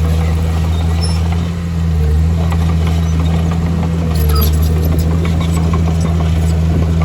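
Heavy construction machine's diesel engine running steadily under load, easing briefly about a second and a half in and rising again about four seconds in. Faint metallic clinks and short squeaks sound above the engine.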